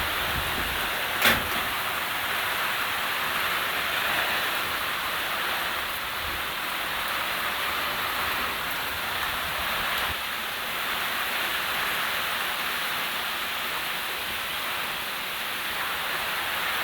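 Heavy tropical rain falling and pattering steadily on surfaces, with a single sharp knock about a second in.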